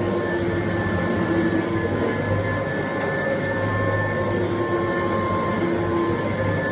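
Kirby Dual Sanitronic 80 upright vacuum cleaner running steadily while vacuuming, a motor whine over a rushing noise. Its tones swell and ease slightly as it goes.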